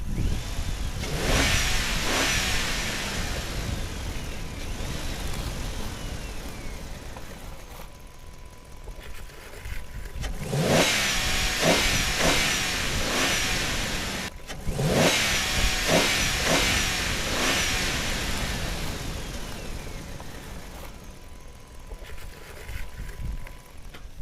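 Car engine revving up and fading away three times, each pass swelling and then dying down over several seconds, over a faint steady tone.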